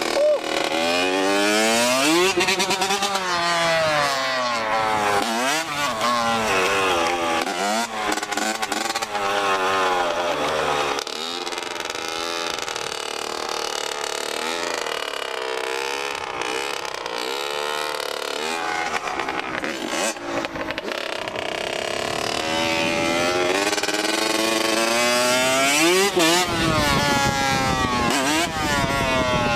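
Off-road motor vehicle engine revving hard, its pitch climbing and dropping again and again as it runs up through the revs. It settles to a lower, steadier run in the middle, then revs up again near the end.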